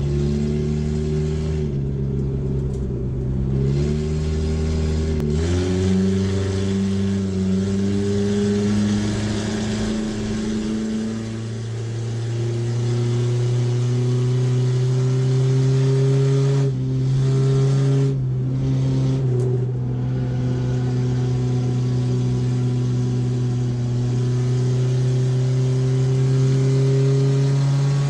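Race car engine heard from inside its stripped, roll-caged cabin, running hard on track. The engine note changes pitch in steps and slowly climbs between them, and it briefly cuts back a few times about two-thirds through.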